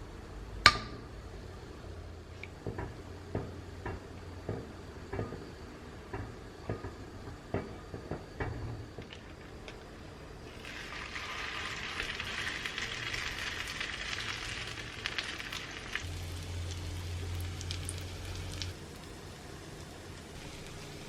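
Kitchen cooking sounds: a sharp click, then a run of short knocks about one to two a second, then several seconds of steady sizzling hiss that cuts off suddenly, with a low hum near the end.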